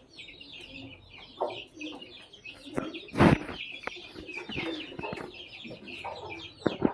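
Aseel chickens clucking over a dense run of short, high chirps, with a sharp knock about three seconds in and a couple of smaller clicks.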